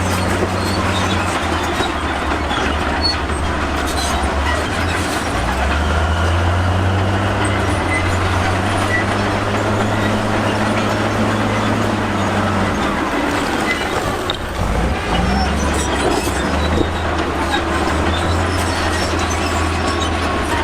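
Crawler bulldozer's diesel engine working under load, its note rising and falling as the machine pushes, with the clatter of steel tracks and scraping rock over it.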